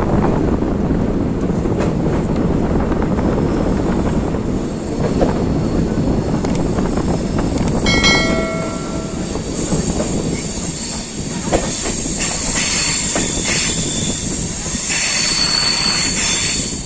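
Passenger train running on the track, a loud steady rumble with wheel clatter. About eight seconds in comes a short horn blast, and toward the end a brighter high-pitched hiss and screech joins the rumble.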